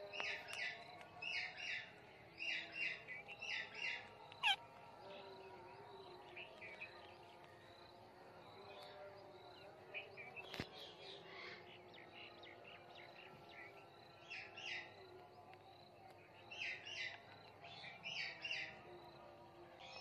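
Birds chirping in quick clusters of short, high chirps that come in several bursts, with one falling whistle about four seconds in and a sharp click about halfway through.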